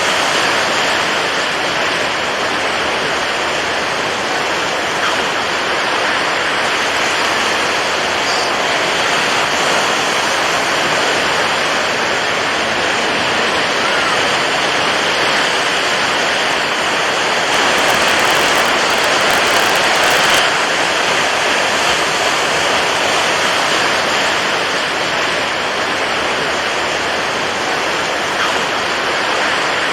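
Continuous rushing of water waves, a steady even wash that swells slightly for a few seconds past the middle.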